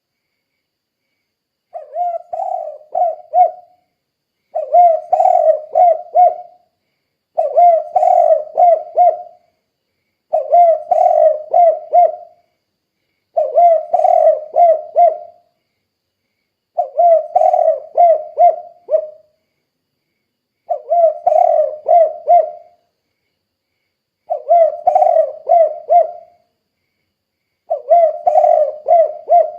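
Spotted dove cooing: a phrase of several short, quick coos about two seconds long, repeated nine times roughly every three seconds with silence between.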